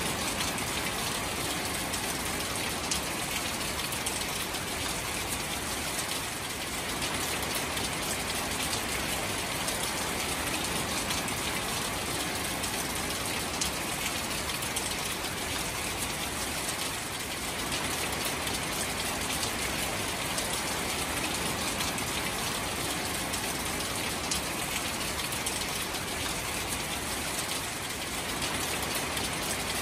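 Steady rain falling on shallow standing water among grass and reeds: a dense, even patter of drops on the water surface.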